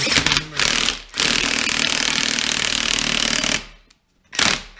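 Cordless impact wrench hammering while driving a wheel-bearing press: a run of about a second, then a steadier run of about two and a half seconds that stops, and a brief burst near the end.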